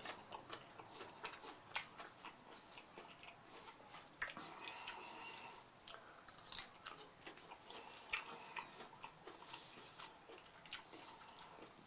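Close-up eating sounds: crispy taco shells crunching and being chewed, an irregular run of sharp crunches between softer chewing.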